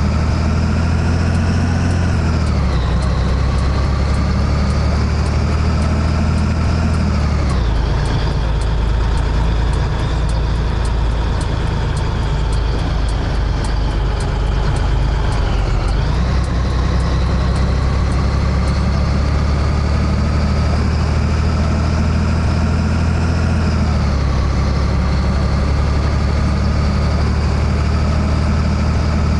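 Scania 113H truck's 11-litre six-cylinder diesel pulling under load. Its pitch climbs and then drops sharply four times as it shifts up through the gears, each climb lasting longer than the one before.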